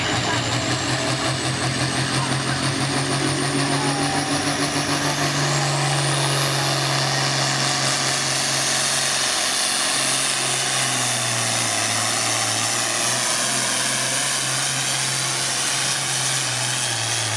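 Turbocharged diesel pulling engine held at full throttle under load during a pull run. Its steady note steps down slightly about halfway through, while a high-pitched turbo whine climbs in pitch over the first several seconds.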